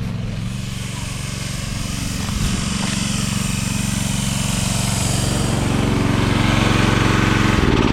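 A vehicle engine running close by, steady and growing louder, then dropping off sharply near the end.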